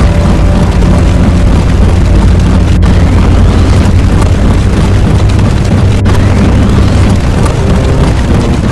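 Loud, dense wall of layered sound effects: a continuous explosion-like rumble with faint rising sweeps running through it. It briefly cuts out twice, about three seconds apart.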